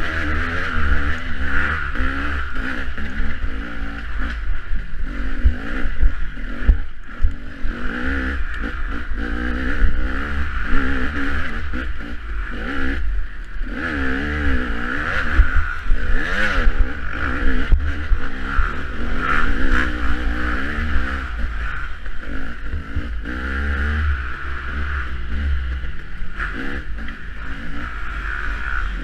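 Dirt bike engine revving up and down as it is ridden over rough off-road ground, the pitch rising and falling every second or two, over a heavy low rumble.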